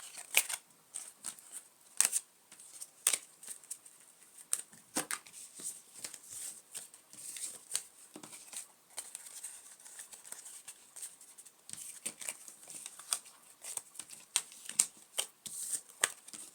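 Playing cards being handled on a table: irregular crisp flicks and clicks of card against card.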